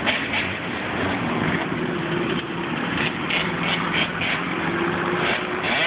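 An off-road vehicle engine running at a fairly steady pitch, holding its revs without big rises or falls.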